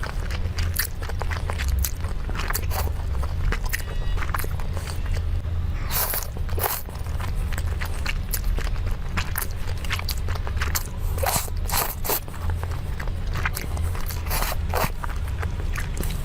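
Close-miked chewing and biting into crunchy food, many sharp irregular crunches over a steady low hum.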